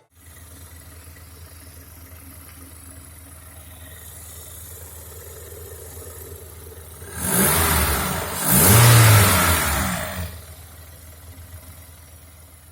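Freshly overhauled Opel X20XEV 2.0-litre 16-valve four-cylinder engine idling steadily, blipped twice about seven and eight and a half seconds in, the second rev the louder, then dropping back to idle.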